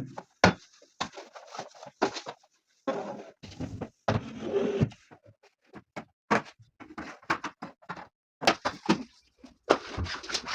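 Household handling noises from cleaning a wardrobe and drawers: a string of sharp clicks and knocks as things are moved and set down, with a longer stretch of rustling about halfway through.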